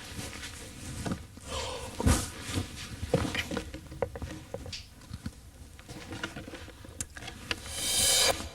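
Light rustling with scattered small clicks and knocks, like objects being handled, and a louder rustle near the end.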